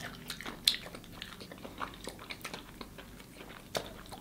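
People biting and chewing fried chicken wings: soft, scattered mouth clicks and bites, with a sharper click about a second in and another near the end.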